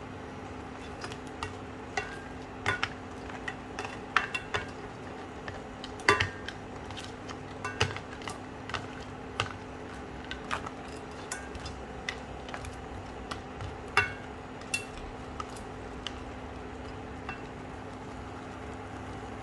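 A metal utensil stirring in a cooking pot, with irregular clinks and knocks, some ringing briefly, over a steady low hum.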